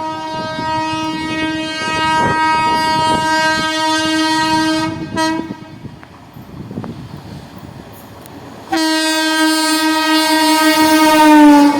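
Passing train's locomotive horn sounding two long blasts, with wheels rumbling and clicking over the rail joints in the gap between them. The second blast drops in pitch near the end as the locomotive goes by.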